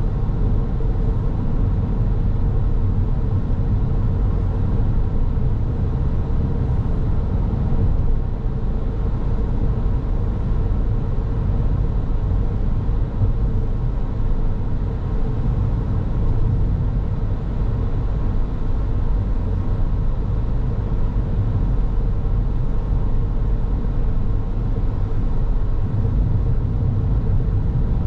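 Car driving along at a steady pace: a constant low rumble of tyres on the road and engine, with a faint steady hum underneath.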